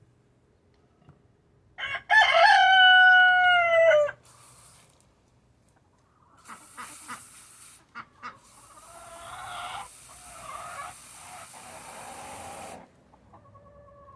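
A rooster crows once, a single drawn-out call of about two seconds, starting about two seconds in. It is followed by several seconds of quieter hissing noise with softer sounds mixed in.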